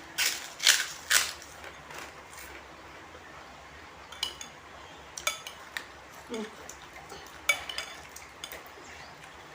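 Spoon clinking against a dish during a meal: three sharp clinks in the first second or so, then scattered lighter clinks and taps.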